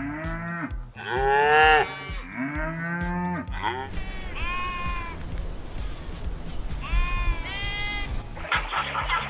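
A cow mooing three times in loud, drawn-out calls that rise and fall, the second the loudest. Then a goat bleats twice in higher calls. A fast, even patter starts near the end over a low background of music.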